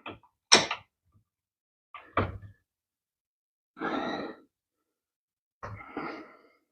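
Hand tools and motorcycle parts being handled while a foot peg is taken off: a handful of short separate knocks and clatters, a longer rattle about four seconds in and a double knock near the end.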